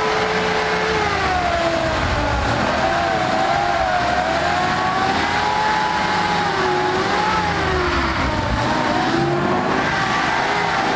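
Off-road vehicle's engine revving hard under load in mud, its pitch rising and falling over and over.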